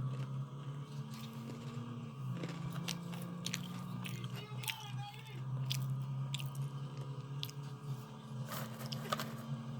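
Someone chewing and biting a crunchy snack close to the microphone, with irregular sharp crunches, over a steady low hum.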